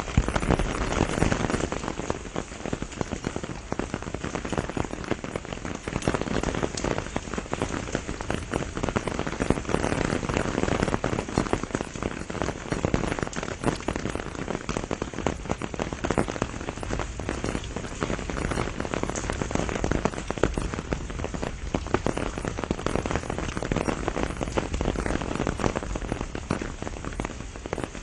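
Steady rain shower falling on the leaves of a pomegranate tree, a dense patter of many individual drops.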